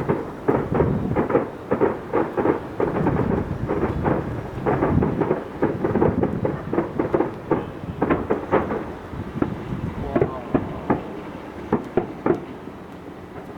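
Fireworks display: a rapid barrage of bursts merging into a continuous rumble, thinning out to fewer, separate bangs over the last few seconds.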